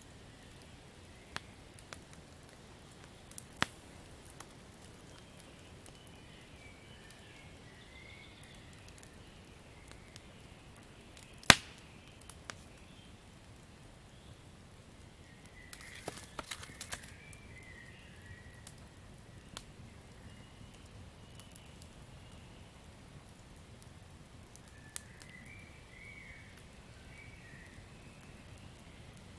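Campfire crackling: scattered sharp pops and snaps over a low steady hiss, with one loud snap about a third of the way in and a quick cluster of pops a little past halfway. Faint high chirping calls come and go in the background.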